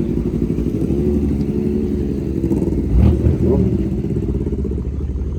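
Car engine idling with a steady low rumble, swelling briefly about three seconds in.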